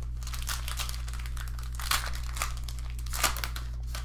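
Foil trading-card pack wrapper crinkling and tearing as it is ripped open and handled, with louder crackles about two seconds in and again just after three seconds, over a steady low electrical hum.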